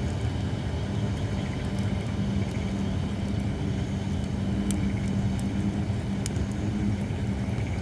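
Holly firewood burning in a campfire, giving a few sharp, scattered crackling pops over a steady low hum.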